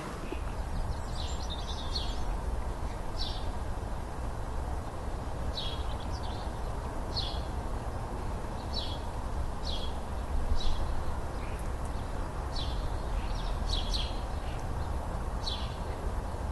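Short, high bird chirps repeating every second or two over a steady low rumble of outdoor background noise.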